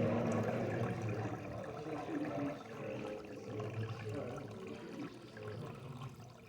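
Water running from a small electric pump into a container, a steady pouring sound that eases off near the end.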